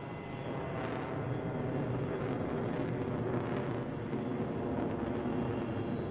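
Jet aircraft noise: a steady rushing rumble that swells over the first second, then holds.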